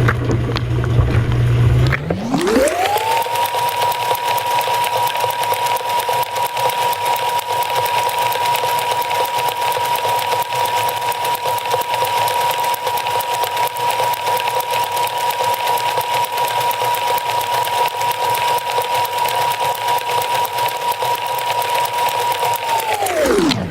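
Dishwasher running with water spraying: its low motor hum glides up into a steady high whine about two seconds in, holds, and glides back down near the end.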